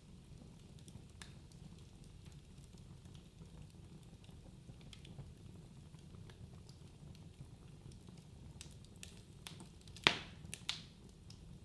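Wood fire burning in a fireplace: a low steady rumble of flames with scattered small crackles, and one sharp loud pop about ten seconds in followed by two smaller ones.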